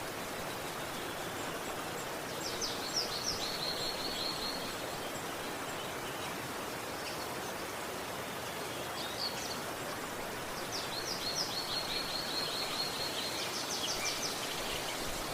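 River water flowing steadily, with a small bird singing two phrases of quick repeated high notes, one about two and a half seconds in and a longer one from about eleven seconds.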